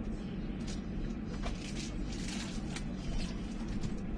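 Fabric rustling in short bursts as bed sheets and bedding are handled, over a steady low rumble.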